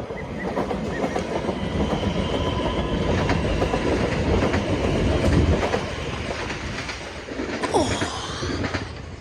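A train passing, wheels clicking over rail joints over a steady rumble with a faint high whine, growing louder to a peak about five seconds in and then easing off.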